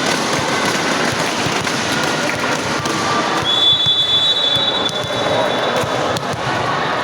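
Loud, dense crowd noise with rapid clattering from spectators' noisemakers, and a long high whistle held for about three seconds from the middle.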